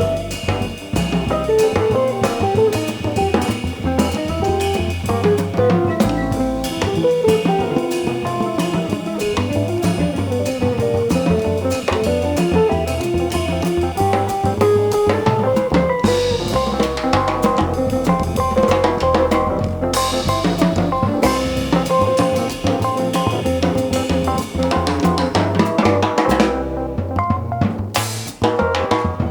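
Jazz band playing live, the drum kit prominent over bass and melody, with cymbal crashes about halfway through and near the end. A melody note is held for several seconds in the second half.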